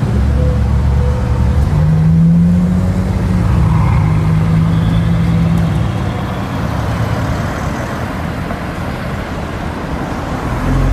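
Bugatti Veyron's W16 engine running at low revs as the car drives slowly past and pulls away. It is loud at first and grows fainter after about six seconds.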